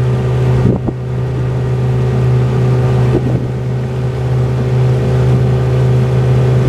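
Motorboat engine running at a steady speed: a constant low hum that does not change in pitch.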